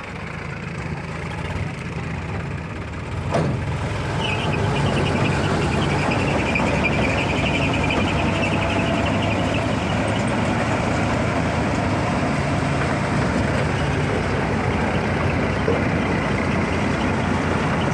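Sonalika 740 tractor's diesel engine running, growing louder over the first few seconds and then holding steady. There is a sharp click about three seconds in, and a high whine for several seconds after it.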